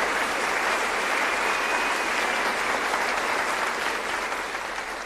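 Crowd applauding steadily, fading away near the end.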